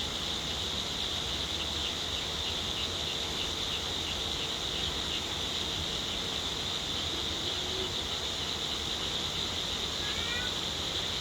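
Steady, high-pitched chorus of insects, with a few short bird chirps about ten seconds in.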